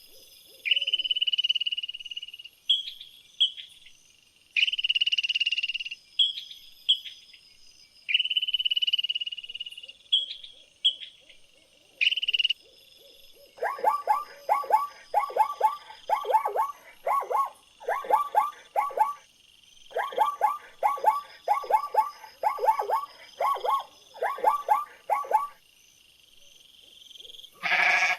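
Animal calls. First come high, clear notes about a second long with shorter chirps between them; then, from about halfway, repeated runs of rapid, lower pulsed calls in quick groups.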